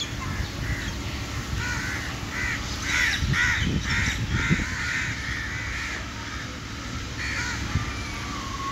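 Birds calling in a run of short, repeated calls, about eight of them close together from about two to five seconds in, and a few more near the end.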